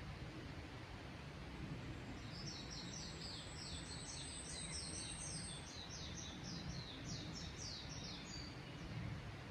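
A songbird singing: a thin, high held whistle, then a long run of about twenty short falling notes lasting some six seconds, over a steady low rush of background noise.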